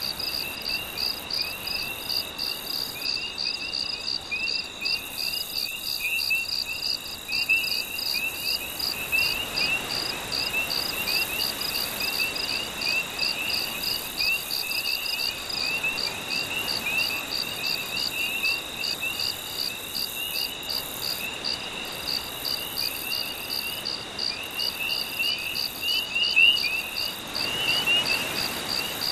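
A night chorus of crickets: an even, pulsing chirp a few times a second, with a second, faster and more irregular chirping a little lower in pitch. Underneath, a soft wash of gentle waves swells and fades, most noticeably twice.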